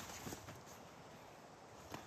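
Steady hiss of rain, with a few soft knocks in the first half second and one sharp tap near the end.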